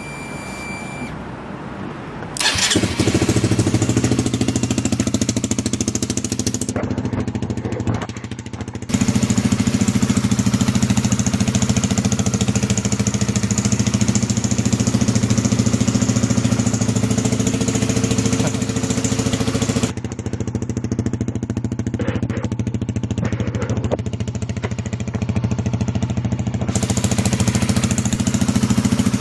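Honda CBR150R single-cylinder four-stroke engine starting on the electric starter about two and a half seconds in, then running steadily through an aftermarket Endurance stainless sports muffler. It gets quieter for a couple of seconds a few seconds later and again for several seconds in the latter part.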